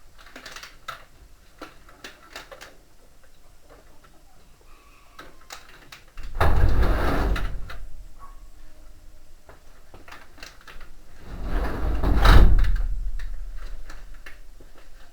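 Washing machine parts being handled during reassembly: light clicks and knocks, then two loud rumbling scrapes. The first starts suddenly about six seconds in; the second swells and fades a few seconds later.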